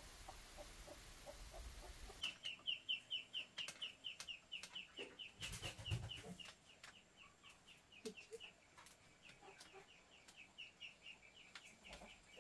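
A bird chirping in a fast run of short, high notes, about five a second. The chirps start about two seconds in, after a steady hiss, and go on for some nine seconds among a few soft knocks.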